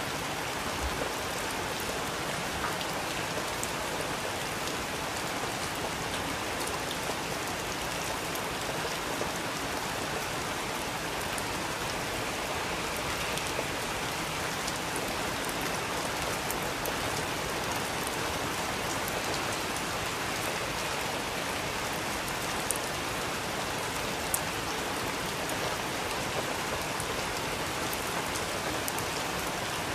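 Steady rain falling, an even hiss with scattered sharper drips landing on a surface, two of them standing out a little after two thirds of the way through.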